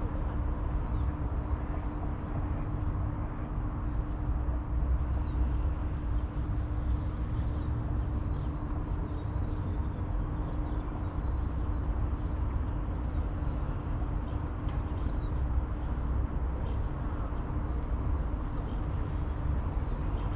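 Riverside city ambience: a steady low rumble with a constant hum under it, and faint short bird chirps now and then.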